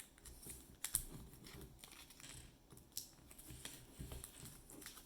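Faint rustling and creasing of small origami paper squares being folded by hand, with a few sharp crinkles, the clearest about a second in and about three seconds in.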